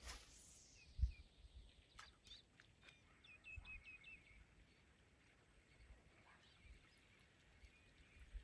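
Faint outdoor quiet with a small bird chirping, a quick run of about six short notes roughly three and a half seconds in. A low thump about a second in and a few soft clicks soon after.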